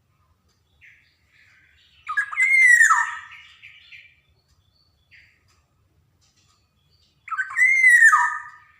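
Black-naped oriole (kepodang) singing: two loud, fluting whistled phrases about five seconds apart, each rising and then falling away, each preceded by a short, softer note.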